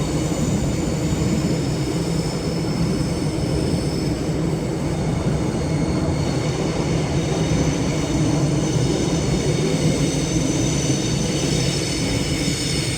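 A rail vehicle running past close by: a loud steady rumble of wheels on track with thin high squealing tones above it, easing off right at the end.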